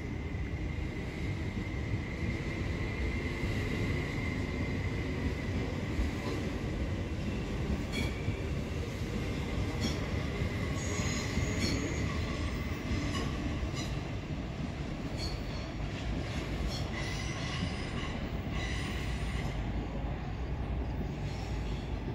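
A rail vehicle running along the track with a steady low rumble. A thin high wheel squeal sounds in the first few seconds, and short clicks over the rails come at intervals later on.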